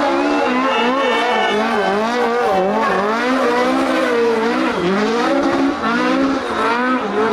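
Rally car engine driven flat out, its revs climbing and dropping again and again, about once a second, through gear changes and throttle lifts.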